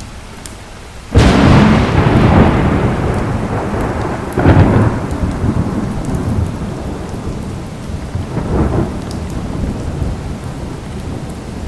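Thunderstorm: a sudden loud thunderclap about a second in, rolling and fading, with two further rumbles (the second fainter), over steady heavy rain.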